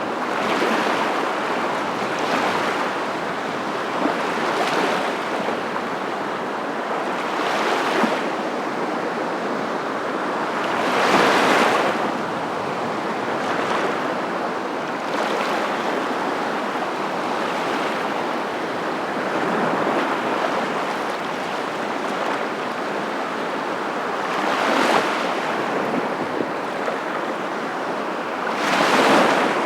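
Surf: waves breaking and washing in, with a steady hiss that swells every few seconds, loudest about eleven seconds in and again near the end.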